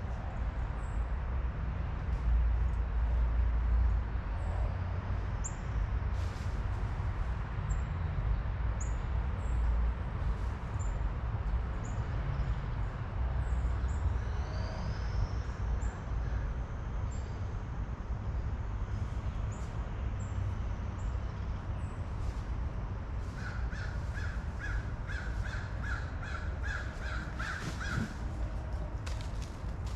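Wild birds calling: short, high chirps scattered throughout, then a quick run of about a dozen evenly spaced calls near the end, all over a steady low rumble.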